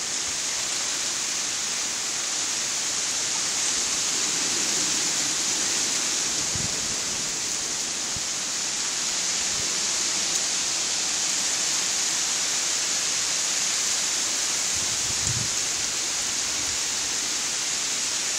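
Heavy thunderstorm rain with strong wind through the trees, a steady rushing hiss.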